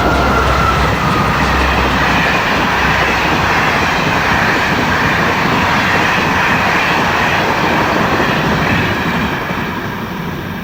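A loud, steady, rushing, train-like noise with no clear notes or beat, easing off near the end. It most likely comes from a sound effect within a record played on the radio show.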